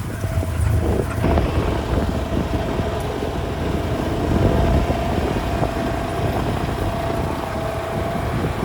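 A motor vehicle driving along steadily, its engine rumbling with a steady whine.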